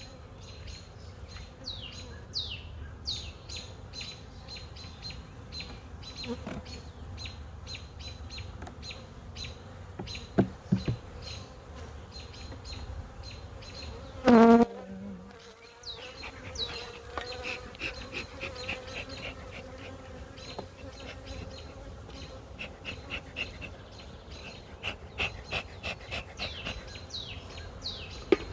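Honey bees buzzing around an open hive, a steady hum. Short high chirps repeat through most of it, and a brief loud rising tone sounds about halfway.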